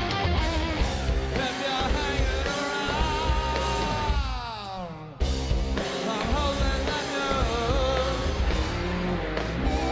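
Live hard rock band playing: distorted guitars, bass and drums with a sung vocal. About four seconds in, the sound glides down in pitch and thins out. Just after five seconds the full band comes back in abruptly.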